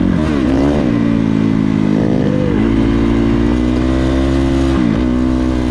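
Dirt bike engine running under throttle while riding off, its pitch rising and falling several times and holding steady between.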